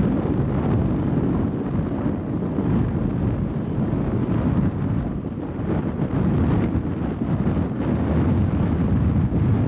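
Freight train of grain hopper cars rolling across a railway bridge, a steady low rumble, with wind buffeting the microphone.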